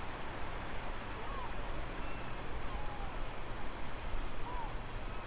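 Steady outdoor rushing noise with a low hum underneath, and faint short chirps that come about every second and a half.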